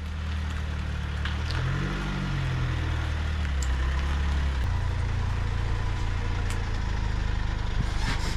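A motor running steadily with a low hum, its pitch shifting about two to four and a half seconds in before settling.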